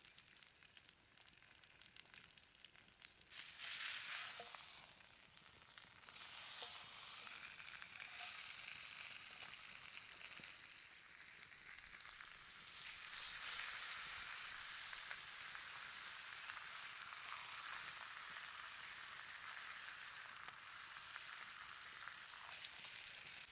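T-bone steak frying in a hot pan over a campfire: a sizzle that starts sharply about three seconds in and swells again twice.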